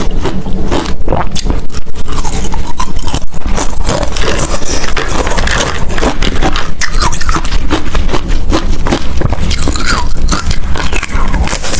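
A person biting and chewing ice close to the microphone: loud, rapid, irregular crunching that goes on without a break.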